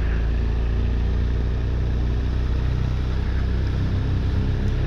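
BMW R1200R's flat-twin engine running steadily at low speed, heard from the rider's seat with road and wind noise.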